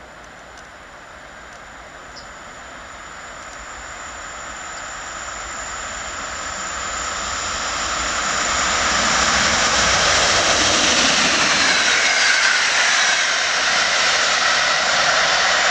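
Locomotive-hauled passenger train on an electrified main line approaching and passing at speed. The wheel-and-rail noise swells over about nine seconds and then stays loud, and a whine slides down in pitch as the train goes by.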